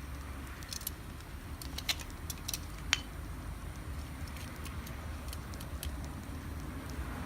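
Wood fire crackling, with scattered sharp pops and snaps, the loudest about three seconds in, over a steady low rumble.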